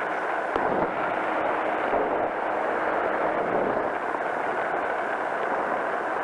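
Powered parachute's engine and pusher propeller running steadily in flight, a loud, even drone.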